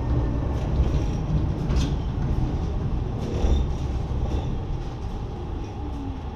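Lausanne-Ouchy rack railway train running downhill, heard on board: a low rumble of wheels and running gear with scattered sharp clicks from the track, growing quieter over the last few seconds.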